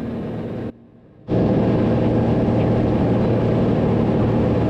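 Cessna 182's piston engine and propeller droning steadily in the cockpit during the descent. The sound drops out briefly about a second in, then comes back louder.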